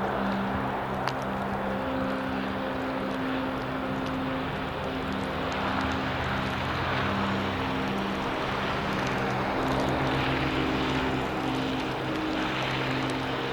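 Gusty wind noise over a steady, low engine hum whose tones come and go.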